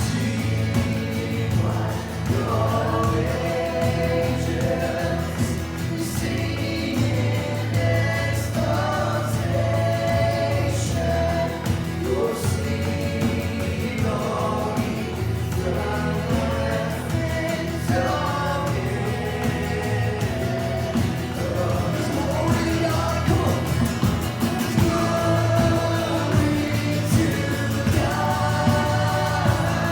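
Christian worship song: a group of voices singing held notes together over instrumental accompaniment with a steady bass.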